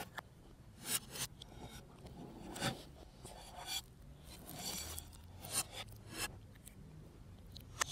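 Close-up eating sounds of a McDonald's apple pie's crisp crust being bitten and chewed, played in reverse, heard as short crackly, scraping bursts about every second.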